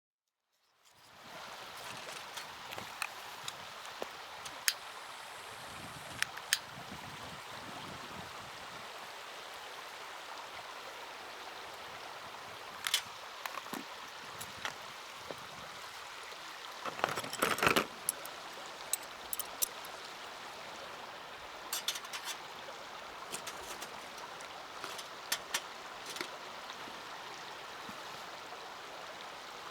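Small wood fire in a mini hexagonal fire stand burning with a steady hiss and scattered sharp crackles and pops, including a denser cluster of pops about two-thirds of the way through.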